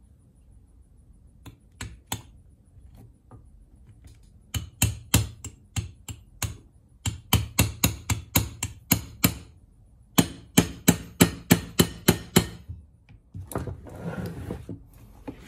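A hammer tapping repeatedly on metal starter parts, in three quick runs of sharp strikes about four or five a second, after a few lighter taps. Some softer handling noise follows near the end.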